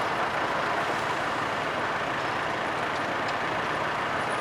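Steady rushing noise of vehicles passing close by, even throughout, with no bell strikes or horn.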